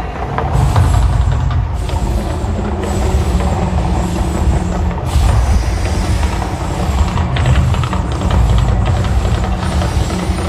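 Loud, continuous low rumble with a rushing hiss over it: the eruption effects of a staged volcano show.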